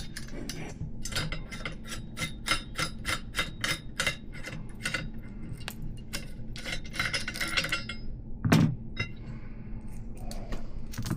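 Metal parts of a BMX hub being worked by hand: a steel axle, spacers and washers clinking and tapping against each other in quick irregular clicks, with one heavier knock about eight and a half seconds in.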